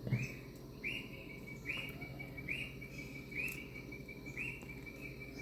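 A high chirping call repeating about once a second, each one a quick upward slide into a held note, from a bird or insect outdoors. There is a faint steady hum underneath and a light knock right at the start.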